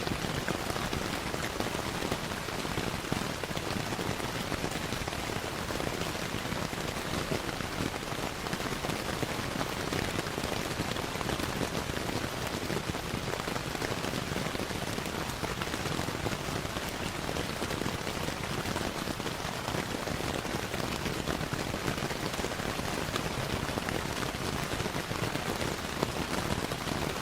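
Steady rainfall, an even hiss thick with small sharp ticks of drops, with fireplace crackling blended in.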